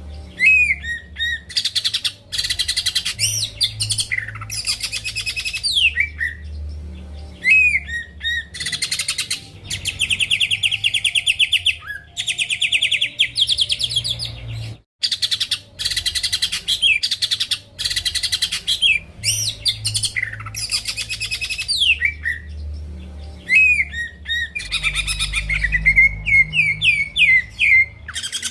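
Cucak ijo (greater green leafbird) singing nonstop in loud, varied phrases: sharp downslurred whistles, rapid trills and buzzy chattering runs, with a brief gap about halfway through.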